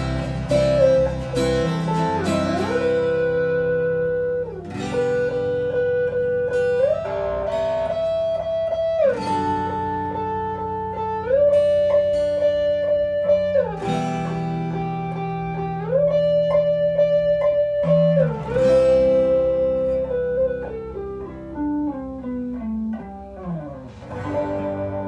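Instrumental guitar music: a held lead melody line, sliding between long notes, over chords struck about every two seconds, with a falling run of notes near the end.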